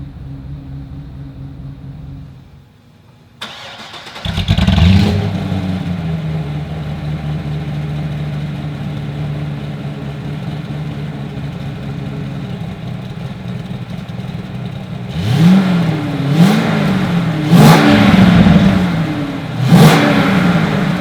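Corvette C6 Z06's 7.0-litre LS7 V8, built with a Katech K501 camshaft and breathing through stock mufflers, starting with a loud flare about four seconds in after a short lull, then idling steadily. Near the end the throttle is blipped four times, each rev rising and falling quickly.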